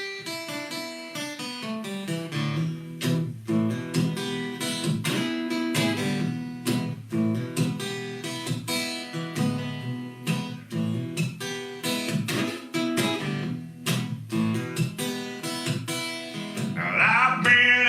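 Acoustic guitar playing the instrumental intro of a country song, picked and strummed over a moving bass line. A man's singing voice comes in near the end.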